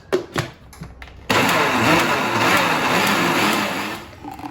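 A few clicks, then an electric kitchen blender starts suddenly about a second in, running loudly as it blends a dragon fruit and banana milkshake, and winds down near the end.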